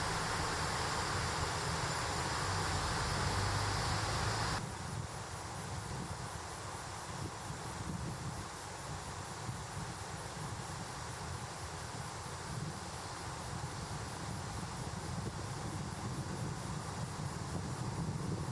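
Mountain stream rushing over rocks, a steady noise of flowing water. About four and a half seconds in, it cuts abruptly to a quieter stretch of the stream.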